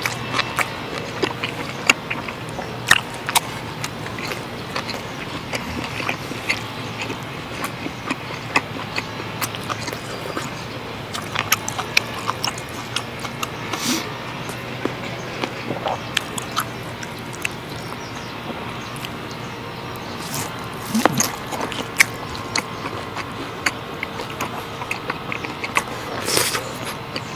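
Close-miked chewing of dry-aged steak: wet mouth sounds with many small clicks. Partway through, a knife and fork cut and tap against a wooden cutting board.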